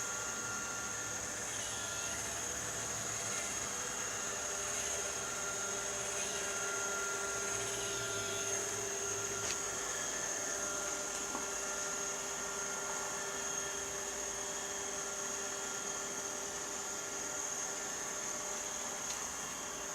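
Robot vacuum cleaner running: a steady motor and fan whine with a high, even tone, and a few faint clicks.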